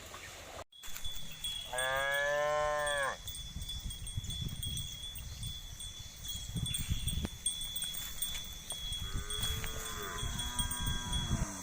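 Cow mooing twice: one moo about two seconds in, and a second, longer moo near the end.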